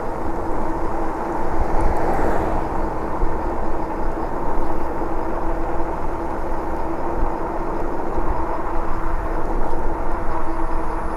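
Wind noise on the microphone while riding an e-bike along a road, with a steady hum running underneath.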